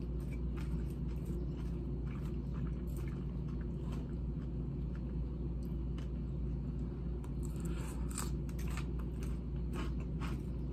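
A person chewing a mouthful of crisp salad close to the microphone: wet chewing and sharp crunches, which get louder and more frequent near the end, over a steady low hum.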